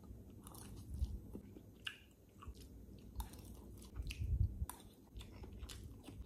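A person chewing a mouthful of instant pancit canton noodles, with scattered soft mouth clicks, then biting into a piece of hotdog near the end.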